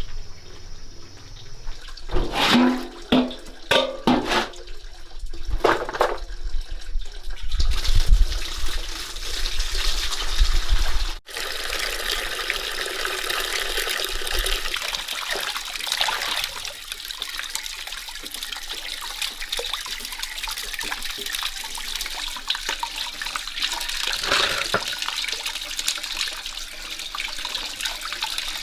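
Water running steadily with a continuous splashing hiss. In the first several seconds there are a few short pitched sounds.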